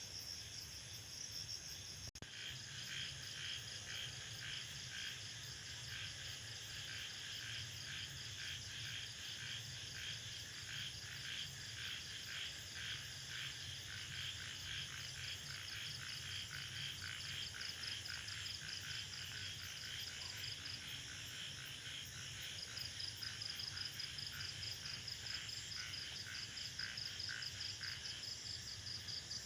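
Jungle chorus of frogs and insects: a fast, pulsing frog-like call runs from about two seconds in until near the end, over a steady high-pitched insect trill. There is a brief drop-out about two seconds in.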